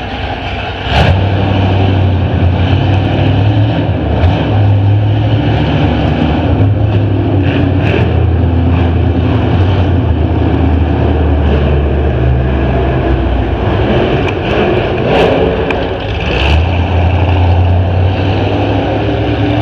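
Car engines running, a loud steady low drone that steps up about a second in, with scattered sharp clicks.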